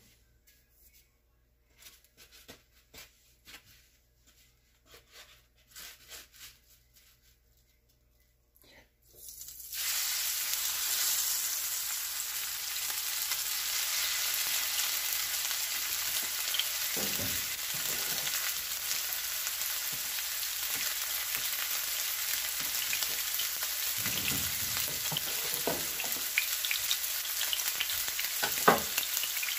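Faint clicks at first, then about ten seconds in a breaded pork schnitzel goes into hot canola oil and the pan breaks into a loud, steady sizzle of deep frying that keeps on, with a few dull knocks in between.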